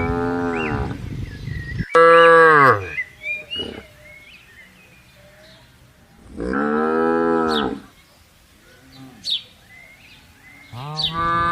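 Cattle mooing: a long moo fading out just as it begins, a loud one about two seconds in that falls in pitch, another about six and a half seconds in, and a fourth starting near the end.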